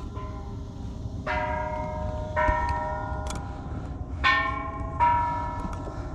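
Temple bells struck by hand, about four strikes each ringing on and overlapping the next, over a steady low rumble.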